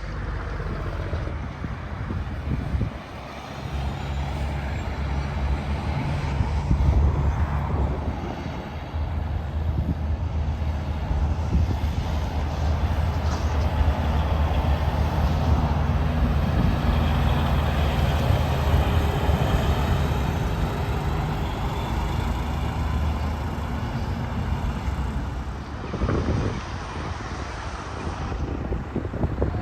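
Heavy truck traffic passing on an interstate highway: steady low diesel engine drone mixed with tyre noise, dipping briefly twice.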